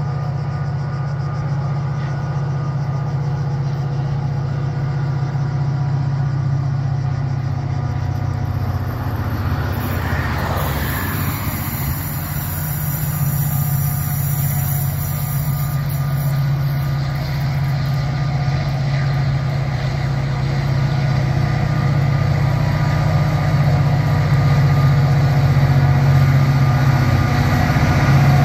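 Diesel train engine running with a steady low hum, growing louder toward the end.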